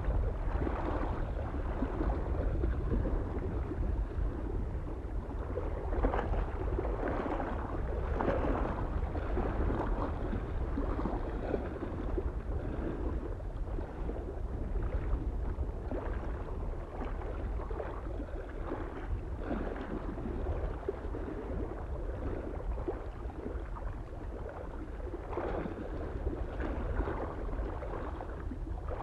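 Small waves lapping irregularly against a lake shore, soft splashes every second or two, over a steady low wind rumble.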